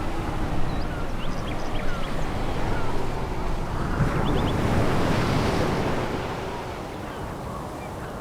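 Sea surf breaking on a pebble beach: a steady rushing wash of waves that eases off after about six seconds.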